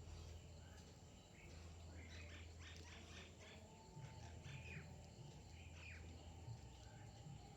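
Small birds chirping faintly: a quick run of short, high calls about two to three seconds in, then a few scattered chirps, over a low steady hum.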